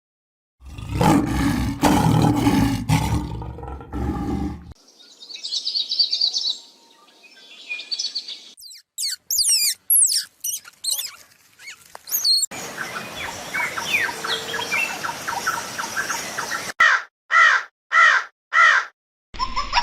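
A run of different animal calls, one short clip after another: a low, dense call for the first few seconds, then bird chirps and sweeping whistled calls, and near the end five evenly spaced repeated calls.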